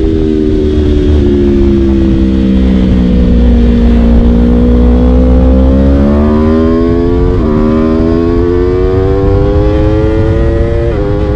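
Aprilia RSV4's V4 engine through an Akrapovic Shorty exhaust, loud as the bike rolls off and the revs sink for a few seconds. It then accelerates hard, revs climbing, with a quick upshift about two-thirds of the way through and another near the end.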